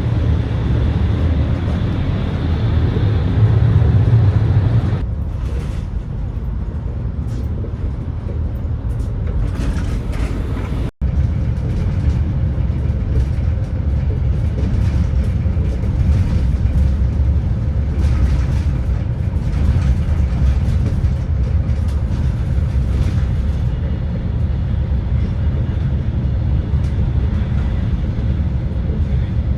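Running noise inside a Trenitalia ETR600 (New Pendolino) high-speed train: a steady low rumble of the train in motion. It is louder and brighter for about the first five seconds, then settles to a softer rumble, and cuts out for an instant about eleven seconds in.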